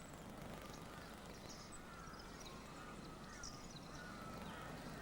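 Faint animal calls: short high chirps and thin wavering whistles over a steady low hiss.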